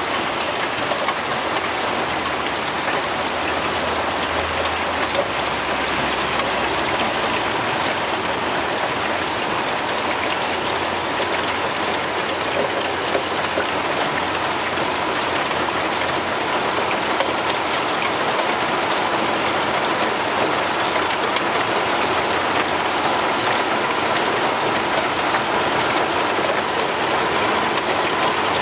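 Heavy rain falling steadily in a downpour, a dense, even hiss of drops hitting surfaces.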